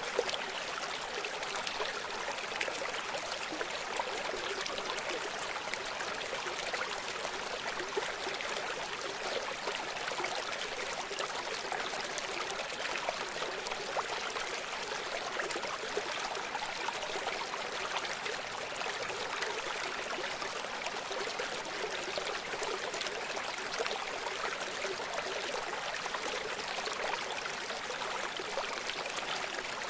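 Gentle river or shallow stream flowing steadily over stones, a constant trickling wash of water with almost no low rumble.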